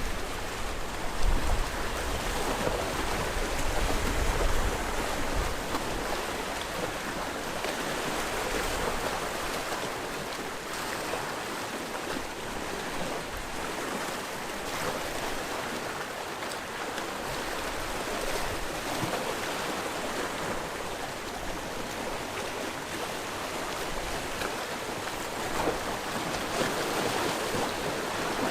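Sea waves washing against the shore, a steady rushing of surf with no single break standing out.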